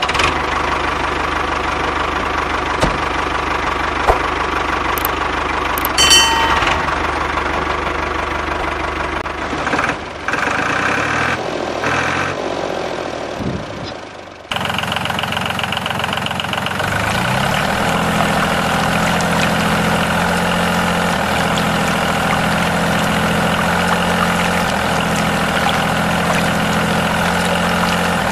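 Engine-like running sound of the mini tractor, steady and even, with a few short clicks in the first half. It changes abruptly about halfway through to a steadier, more tonal running sound.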